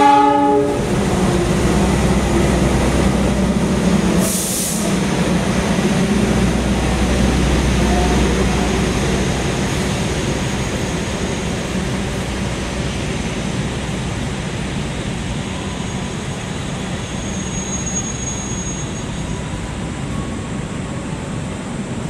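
KA Argo Cheribon passenger train arriving: its horn cuts off just at the start, then the cars rumble steadily along the rails as the train slows, fading gradually. A brief hiss comes about four seconds in, and a faint high squeal sounds later on.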